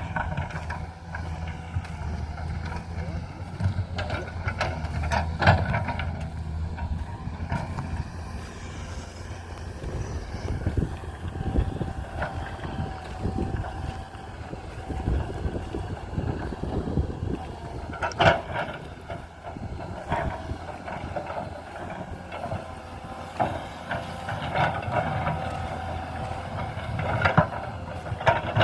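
An engine running steadily, with knocks and clanks now and then.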